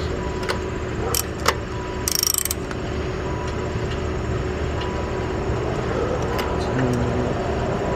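Steady low hum of an idling car engine, with a few sharp metallic clinks and a short metallic jangle about two seconds in.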